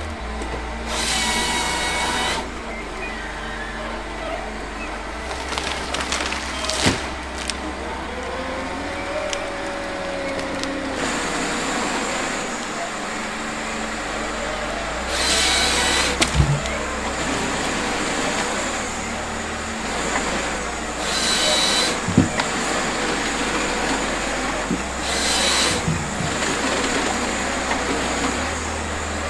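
Industrial wood chipper running and chewing through logs: a steady low drone with crunching and knocking, and four short loud surges of noise as wood goes through the blades.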